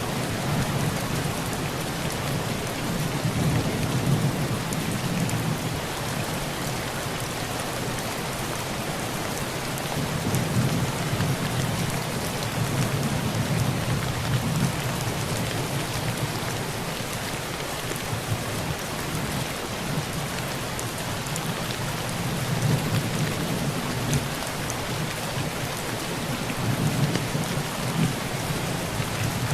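Heavy rain falling steadily on a tin roof, with low rolls of thunder that swell and fade several times.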